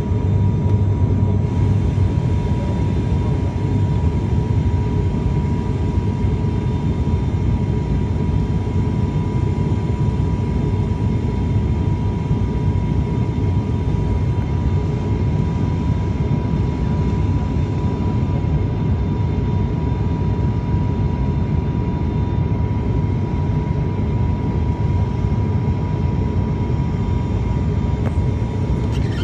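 Cabin noise of an ATR 72 turboprop airliner in flight: a steady low drone from the engines and propellers, with a thin steady tone running through it and no change in level.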